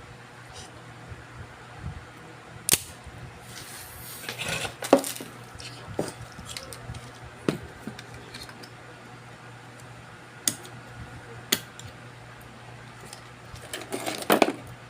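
Small hard objects handled on an electronics repair bench, clicking and clattering: about half a dozen separate sharp clicks and two brief bursts of clatter, about four seconds in and near the end, over a steady low hum.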